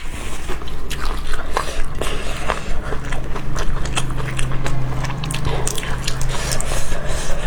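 Close-miked chewing and biting: dense wet clicks and crunches of a mouthful of rice with fresh bird's eye chilies. A low steady hum sits under the chewing from about two and a half seconds in until near the end.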